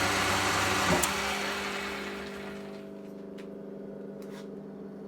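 Smart & Brown lathe running, then switched off with a click about a second in and spinning down over the next two seconds, leaving a steady electrical hum.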